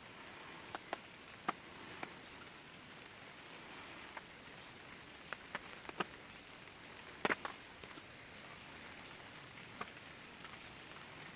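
Steady rain falling, with a scattered series of sharp taps from single drops, a couple of them louder a little past the middle.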